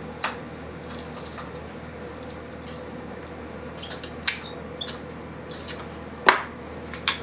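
A few sharp clicks and knocks from hand tools and small parts being handled on a workbench, the loudest about six seconds in, over a faint steady hum.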